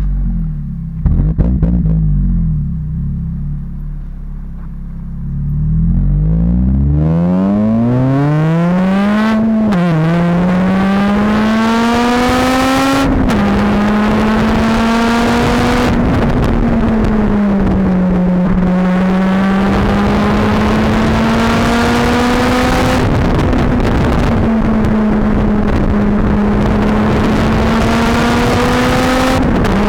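Honda Civic Type R FN2's four-cylinder engine through a Magnaflow exhaust: after a low rumble with a couple of knocks, the car accelerates hard with the exhaust note climbing steeply, dropping at two gear changes, then holds high revs with gentle rises and falls.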